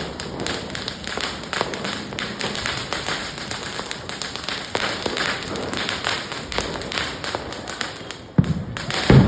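Diwali firecrackers going off: a dense run of small pops and crackles, with two louder bangs near the end.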